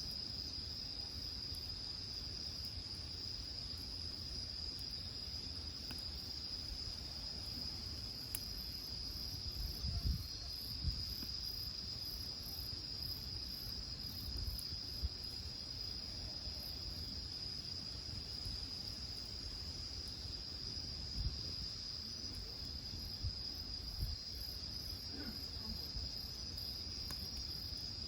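Crickets chirring in a steady, high, unbroken drone, with a few faint knocks scattered through it.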